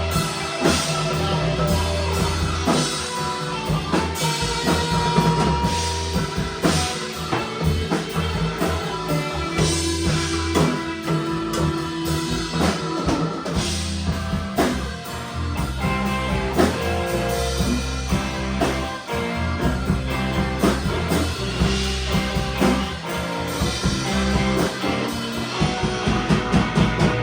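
A rock band playing an instrumental passage: drum kit with bass drum and snare hits, a strong low bass line and guitar.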